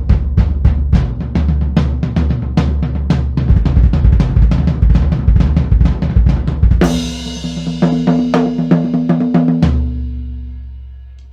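Miked drum kit with a Pearl Reference bass drum and floor tom and Tama Starclassic toms, played in a fast run of bass drum and snare strokes. About seven seconds in a cymbal crash comes in with a run of tom hits under a held drum ring, then a last hit near the end, and the kit rings out and fades.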